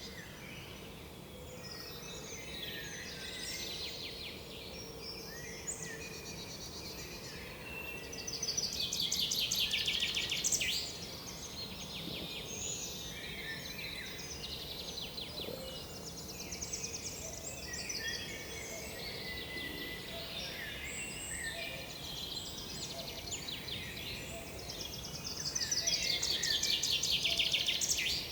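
Small forest songbirds calling and singing all around in a steady chorus of chirps and twitters. Two louder rapid trilled songs stand out, one about eight seconds in lasting some three seconds and another near the end.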